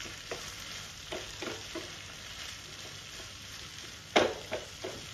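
Smoked pork, potatoes and onion sizzling in a nonstick frying pan while a wooden spatula stirs them, with several short scrapes and knocks against the pan. The loudest knock comes about four seconds in, followed by two quicker ones.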